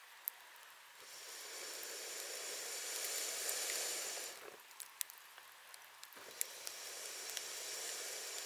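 Wood campfire burning: a hissing sizzle that swells about a second in, eases a little after the middle, then rises again, with sharp crackles and pops scattered through it.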